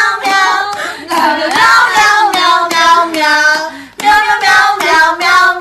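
A high voice singing a tune made of repeated "meow" syllables, in quick succession.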